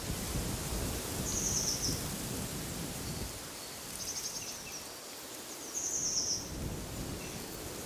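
Wind gusting through trees and over the microphone, with a bird giving three short, high, rapidly trilled calls.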